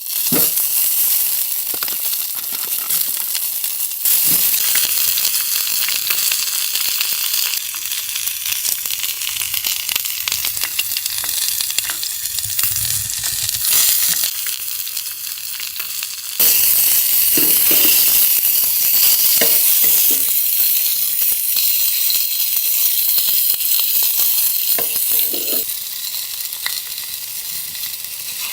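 Food sizzling and frying in a hot pan: a steady, loud, high hiss with a few light clicks.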